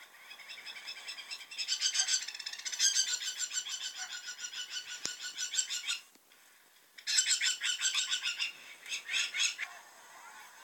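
A bird calling loudly in rapid, repeated chattering runs: one long run starting about a second and a half in, a short break, then another run that trails off in shorter bursts near the end.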